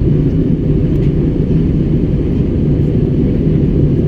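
Passenger-cabin noise of an airliner in flight: a steady low rumble of engines and airflow with a faint hiss above it.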